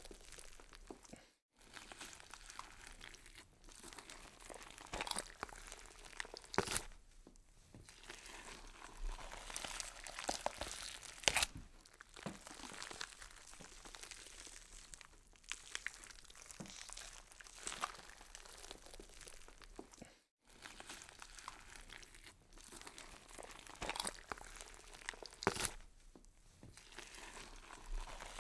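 Horror sound effect of wet crunching and tearing: dense, irregular crackles and snaps with no steady rhythm, cutting out briefly to silence twice.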